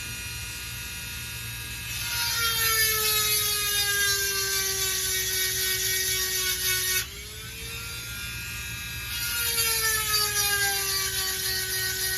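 Dremel rotary tool with a 7/32-inch round grinding stone sharpening chainsaw chain cutters. The motor's whine drops in pitch under a grinding hiss as the stone bites in about two seconds in, climbs back when it is lifted off around seven seconds, and sags again as it bites in once more near nine seconds.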